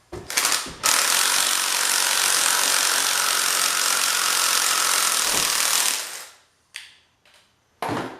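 A steady mechanical ratcheting, gear-like noise lasting about five seconds, with short knocks just before and after it, from the motor being worked apart.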